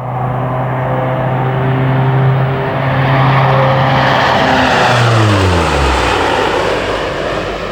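Lockheed P-3K Orion's four Allison T56 turboprops in a low flypast: a steady propeller drone that drops in pitch as the aircraft passes, about five seconds in.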